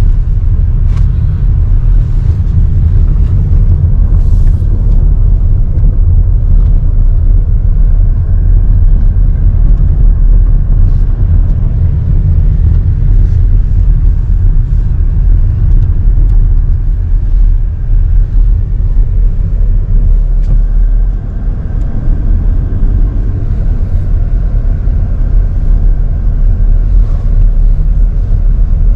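Wind buffeting the microphone in a snowstorm: a loud, steady low rumble that swells and dips.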